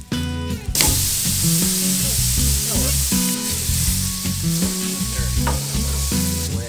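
Burger patties sizzling on a flat-top griddle, the sizzle starting sharply about a second in, while a metal spatula presses and turns them. Guitar music plays underneath.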